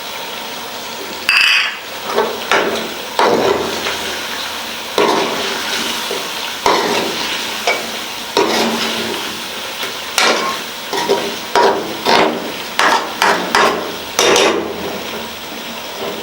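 Chicken frying in ghee in a karahi with a steady sizzle, while a spoon stirs and scrapes against the pan in quick, irregular strokes that start about a second in and come thickest in the second half.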